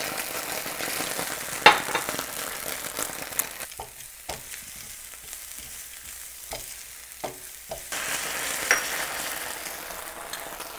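Garlic, spring onions and green chilies sizzling in hot oil in a stainless steel pan as ketchup cooks in, with metal tongs clicking and scraping against the pan a few times. The sizzle is quieter for a few seconds in the middle.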